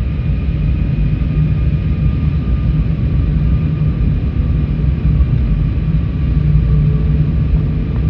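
Cabin noise inside an Airbus A321neo airliner in flight: a loud, steady rumble of engines and airflow with a faint, steady whine above it.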